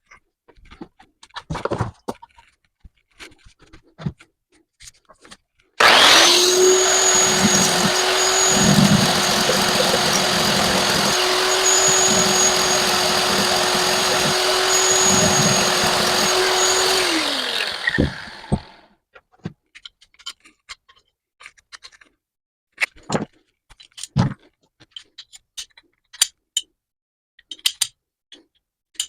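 A handheld electric power tool switched on, running steadily at one speed for about twelve seconds, then switched off and spinning down. Light clicks and knocks of handling before and after.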